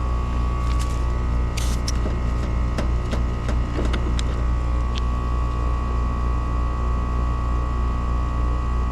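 Steady low mechanical hum from a running motor or engine, with a few light clicks and taps in the first half.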